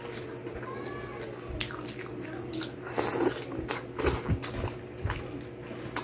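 Close-up wet chewing and lip-smacking of a person eating crispy pata (deep-fried pork knuckle) and rice by hand, in a run of quick mouth clicks and smacks, densest in the middle of the stretch.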